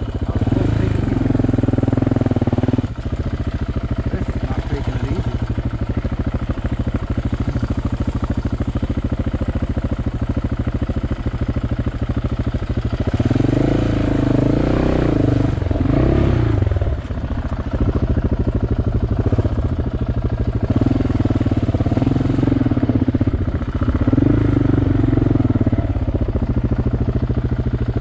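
KTM 690 single-cylinder motorcycle engine running at low revs on a rough, rocky trail, with the revs rising and falling for a few seconds around the middle as the throttle is worked.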